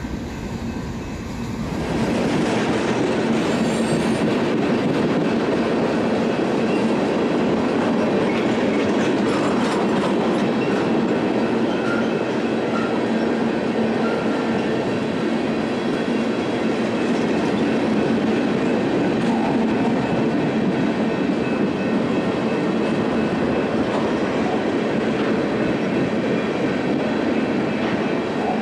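Freight train of tank cars rolling past close by: a steady rumble of steel wheels on rail with a clickety-clack. It gets much louder and nearer about two seconds in, and faint high wheel squeal comes through now and then.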